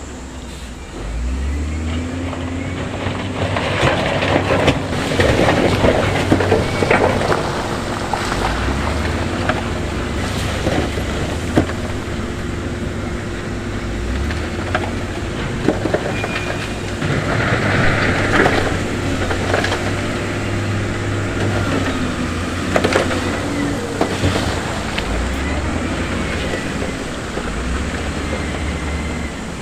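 Heavy diesel construction machinery working: the engine drones and changes pitch as it revs under load, with scattered clanks and knocks of stone being moved.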